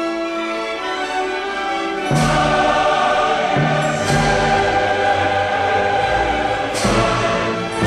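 Choral music with orchestra: sustained choir singing that swells to a fuller sound about two seconds in, with further entries around four and seven seconds.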